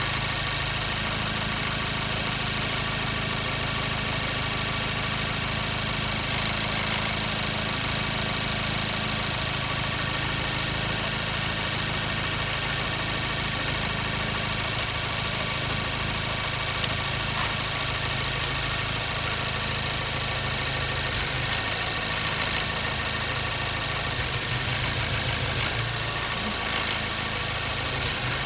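2014 Mazda 3's 2.0-litre four-cylinder engine idling warm with a cylinder 2 misfire, during a hot-engine cylinder drop test. The idle note shifts a little in the second half, and there are three short sharp clicks.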